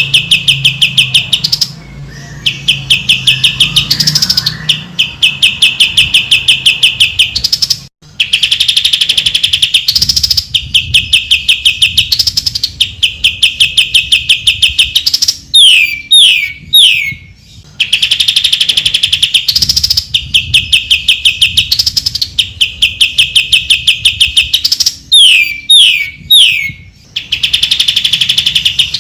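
A cucak ijo (green leafbird) singing loudly in long, rapid, high-pitched trills with short breaks between phrases. Twice, about halfway and again near the end, it slips in a run of quick downward-sweeping whistles.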